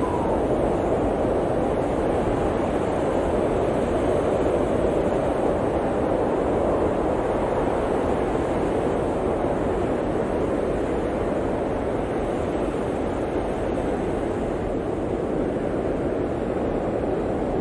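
Blizzard wind blowing in a steady, dense rush that swells slightly and eases a little near the end.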